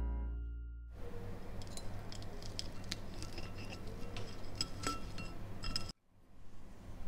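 Metal knife and fork cutting a crisp fried potato pancake on a ceramic plate: light crackly scraping and small clinks of cutlery on the plate, over a low steady hum. A music chord dies away in the first second, and the sound cuts out briefly near the end.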